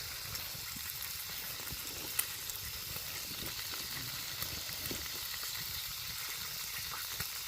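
Bacon sizzling and frying over campfire coals: a steady hiss with a few sharp pops here and there.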